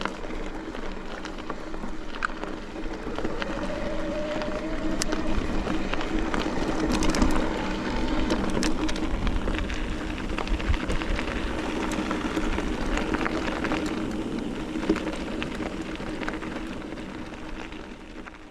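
Mountain bike rolling over a rocky dirt trail: steady tyre and wind noise with scattered clicks and rattles from the bike, fading out near the end.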